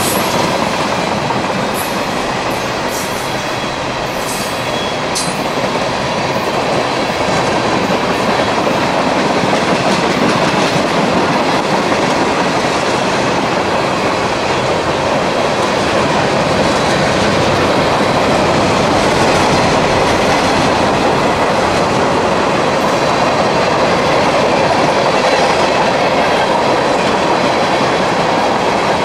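Freight train cars rolling past steadily, their wheels clattering over the rails in a continuous loud rumble.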